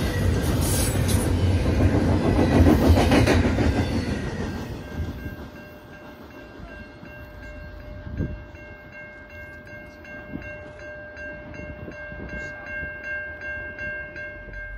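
The last cars of a double-stack intermodal freight train rolling past with wheel and rail noise, which fades away over about the first four seconds. The level-crossing warning bell then rings on as a steady, evenly repeating tone, with a few low thumps.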